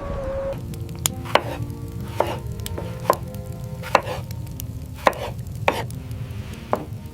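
A series of sharp, crisp impacts, about one a second, over a steady low rumble and held music notes.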